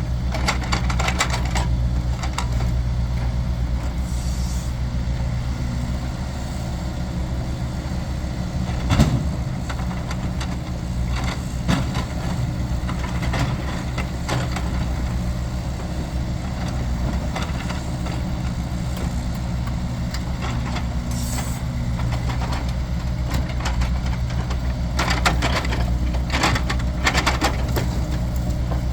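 A vehicle engine running steadily while firewood cracks and crunches at times, with a sharp knock about a third of the way through and a cluster of cracking near the end.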